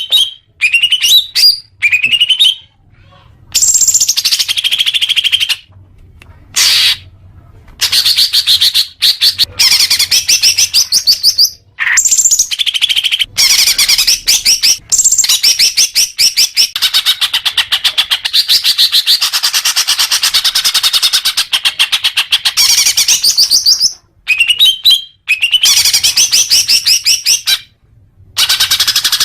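Green leafbird (cucak hijau) singing: long runs of rapid, high-pitched chattering trills and chirps, broken by short pauses.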